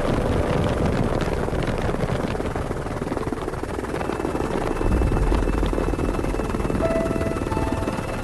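A helicopter running steadily with its rotor chopping fast, with a few faint music notes over it in the second half.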